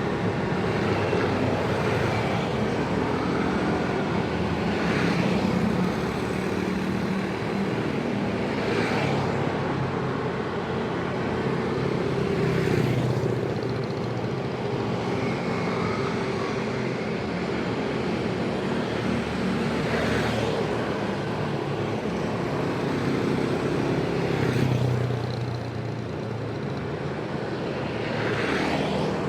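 Dense road traffic: many vehicle engines running together in a steady hum, with brief louder passes every few seconds.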